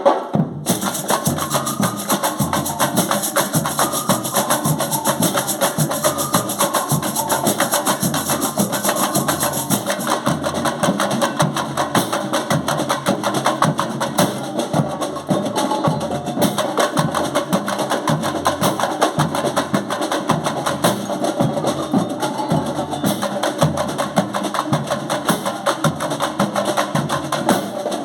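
Band rehearsing a piece driven by fast, dense percussion, with sharp wood-block-like strikes over a steady beat and some pitched notes above it.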